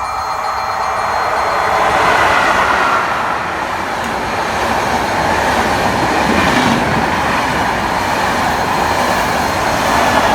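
A train passing through the station: a steady rush of steel wheels on the rails, swelling about two seconds in and staying loud, with another peak near the end.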